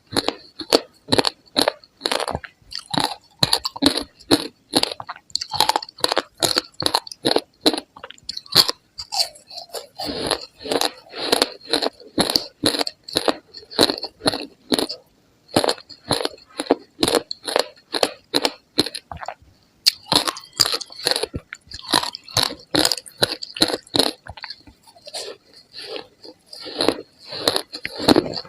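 Ice being bitten and chewed close to the microphone: a fast run of crisp crunches, about two to three a second, with a couple of brief pauses.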